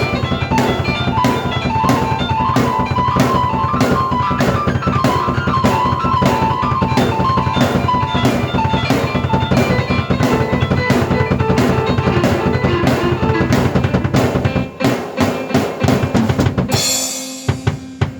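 Drum kit and keyboard played together: a steady beat with bass drum and snare under a keyboard melody. Near the end the beat breaks into separate accented hits, a cymbal crashes about 17 seconds in, and a held chord rings out as the piece ends.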